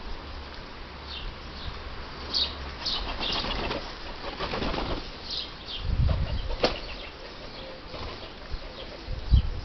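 Birds at a garden feeder: wings flapping as they come and go, with short high chirps scattered throughout. There are a few low thumps and a sharp click about two-thirds of the way through.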